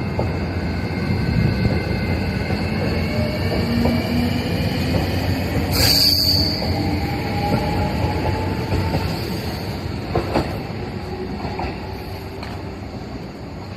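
E653 series electric limited express train moving along the track, with rumbling and several gliding squeals from the wheels and a sharp high squeal about six seconds in. A few clicks come near ten seconds, and the sound eases toward the end.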